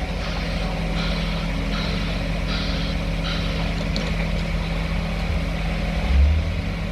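Heavy vehicle engine running steadily, with a short hiss repeating about every three-quarters of a second; the steady hum fades about four seconds in.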